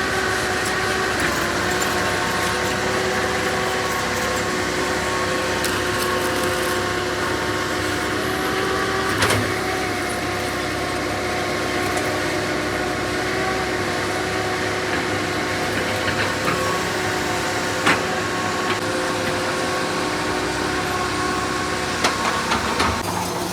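Diesel engine of a construction machine running steadily, with a steady whine over it and a few sharp metallic knocks, one about nine seconds in and others near the end.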